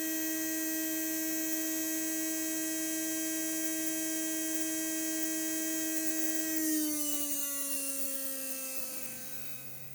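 Small electric motor from a Heljan Class 23 model locomotive, out of its drive, running free on a test supply with a steady whine; about seven seconds in it slows, the whine falling in pitch and fading. It runs smoothly, showing no sign of the motor being on its way out.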